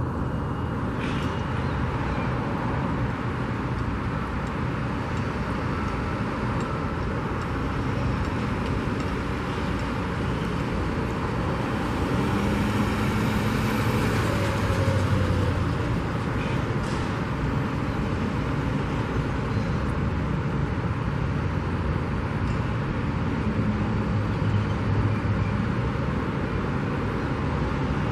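Steady road traffic noise with engine rumble, one vehicle swelling louder as it passes about twelve seconds in.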